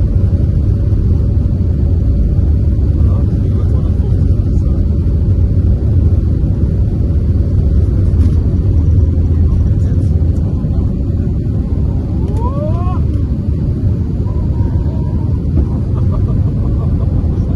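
Airbus A320 jet engines running, a steady low rumble. A brief rising tone cuts in about two-thirds of the way through.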